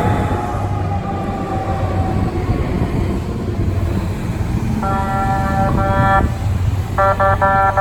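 Air horn sounding a chord of several tones: one long blast with brief breaks, then a quick run of short toots near the end, over a steady engine rumble. A falling tone fades out in the first second.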